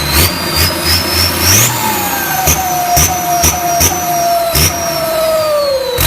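Turbocharged engine running with a loud exhaust. The turbo's high whistle climbs for the first couple of seconds, then slowly falls away, over regular thumps about twice a second.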